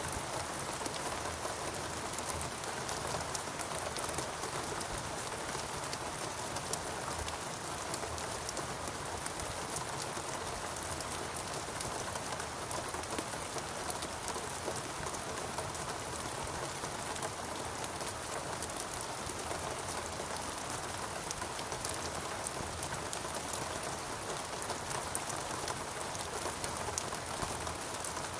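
Steady rain falling, a continuous hiss with many separate drops ticking through it.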